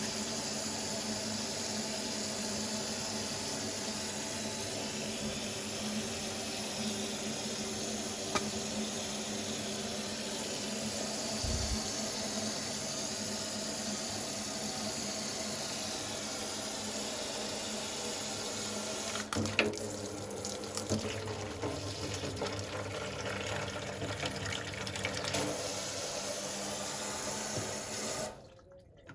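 TOTO single-lever kitchen mixer tap running water steadily into the sink. A little past halfway the splashing turns uneven for several seconds, and near the end the flow is shut off and stops suddenly.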